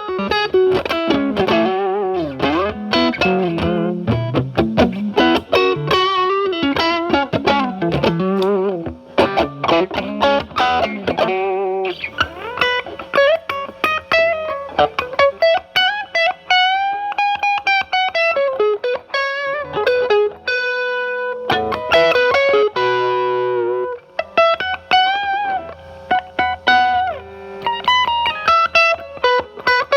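Stratocaster played through a Timmy transparent overdrive pedal into a Marshall Valvestate amp's clean channel. The pedal is at maximum gain with the guitar's volume rolled back to clean it up, leaving a lightly driven tone. It plays single-note phrases with string bends and vibrato, with a few strummed chords about two-thirds of the way through.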